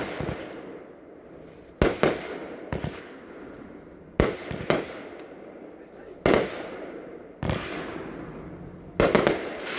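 Sunwing 'Grand Prize' 20-shot consumer firework cake firing, a sharp bang roughly every one to two seconds, each followed by a fading hiss, with a quick run of three shots near the end.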